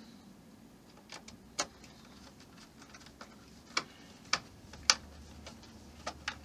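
Small model-kit parts clicking and tapping as they are handled and fitted: about seven irregular sharp clicks, the loudest about five seconds in.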